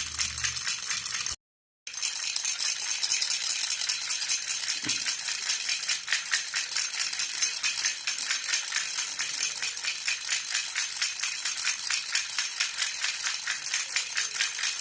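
Jhunjhuna baby rattle shaken steadily and rapidly, a continuous jingling rattle. The sound drops out completely for about half a second around one and a half seconds in, then the shaking resumes.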